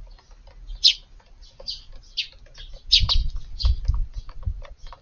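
A flock of Eurasian tree sparrows, mostly fledglings, chirping in quick short calls, with small ticks among them. Low rumbling thumps come in just past the middle.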